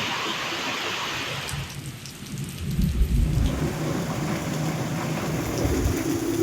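Heavy rain pouring down as a steady hiss, with a low rumble coming in about two and a half seconds in.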